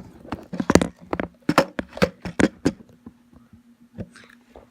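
A rapid, irregular series of sharp knocks and clacks, as of hard objects being handled and set down, thickest in the first three seconds, over a faint steady hum.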